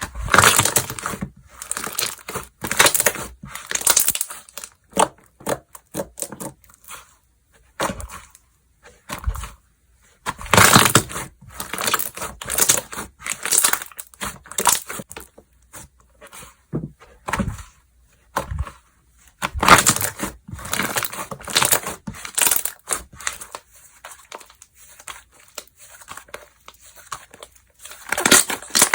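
Slime being squeezed, stretched and pressed by hand, making irregular bursts of textured, crackly handling noise with short pauses between them.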